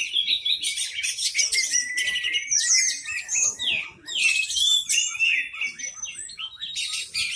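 Orange-headed thrush singing a long, varied song of rapid chirps, trills and gliding whistles, with a brief break about four seconds in.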